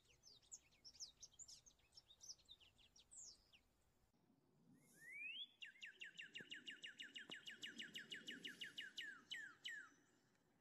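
Songbirds singing: a jumble of quick, high chirps, then after a brief break a rising note and a long, fast trill of repeated down-sweeping notes, about five a second.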